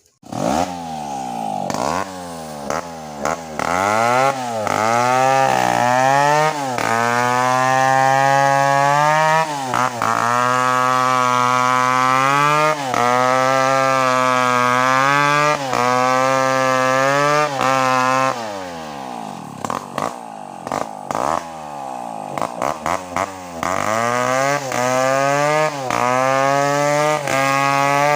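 Gasoline chainsaw revving up and running at high speed, dipping briefly every second or two, dropping to a lower speed about two-thirds through, then revving high again near the end, as when cutting through a coconut trunk.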